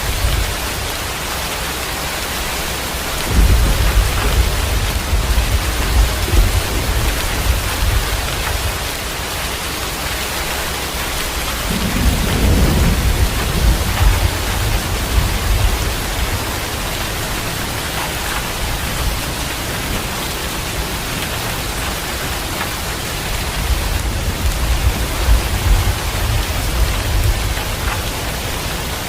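Heavy rain falling steadily with rolling thunder. One rumble starts suddenly about three seconds in, a second comes around twelve seconds, and a third comes near the end.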